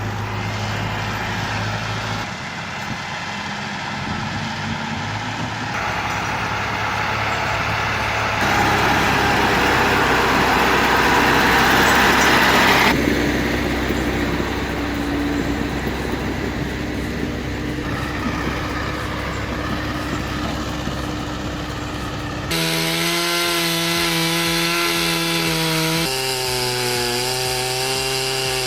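Chainsaws cutting wood, heard as a run of short spliced clips. In the last several seconds a saw runs at a steady pitch.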